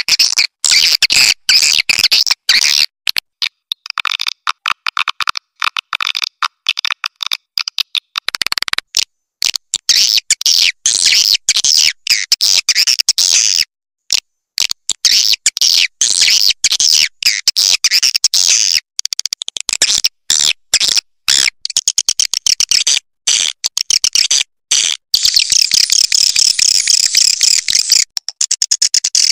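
Swiftlet call recording used to lure swiftlets to a nesting house: a dense, loud stream of rapid, high-pitched chirps and clicking twitters, going on without a break. Between about 4 and 8 s in, a lower chittering layer joins the high chirps, and from about 25 s the high twitter thickens.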